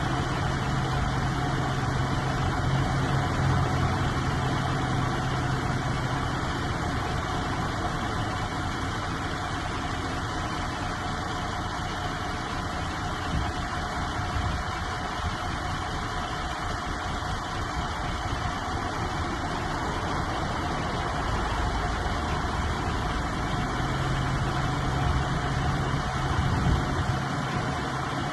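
MAN TGS 33.440 truck's diesel engine idling steadily, its low hum stronger at the start and again near the end.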